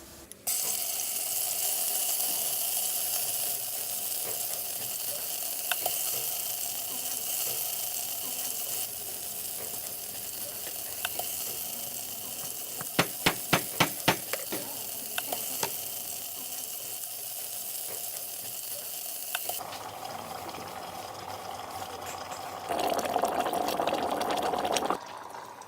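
Food frying in hot oil: a steady sizzle, with a quick run of sharp clicks a little past the middle. The sound changes abruptly twice near the end, then a louder stretch of the same kind of noise cuts off.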